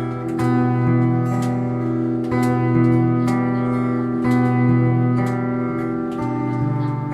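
Acoustic guitar strummed in a steady rhythm over held chords, the instrumental intro of a ballad before the vocal comes in.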